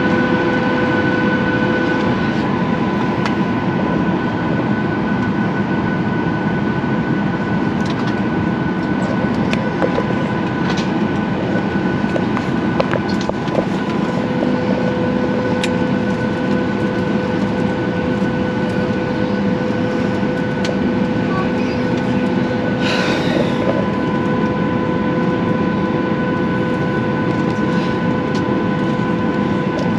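Steady rumble and hum from inside a moving vehicle, with a few faint clicks and a short hiss about two-thirds of the way through.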